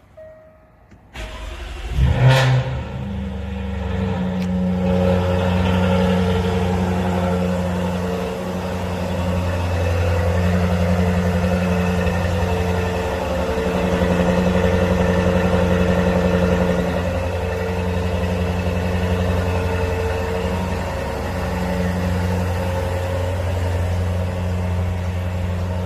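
Jaguar F-Type SVR's supercharged 5.0-litre V8 starting cold: it cranks about a second in, catches with a sharp flare of revs, then settles into a steady cold-start idle.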